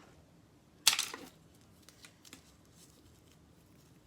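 Fidget toys being handled and packed into a bag: one sharp rustle about a second in, then a few faint small clicks.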